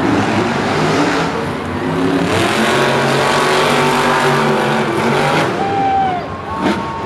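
Monster truck supercharged V8 engines revving hard as the trucks race, loud and continuous with the pitch rising and falling.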